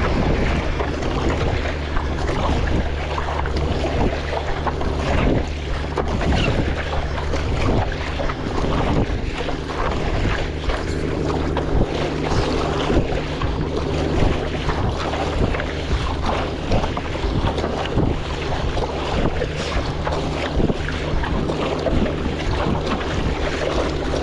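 Wind rumbling on the microphone, with water splashing and sloshing around a stand-up paddleboard on choppy sea.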